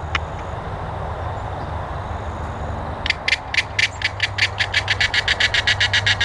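A fast series of sharp ticks that starts about halfway through and speeds up, over a steady low hum.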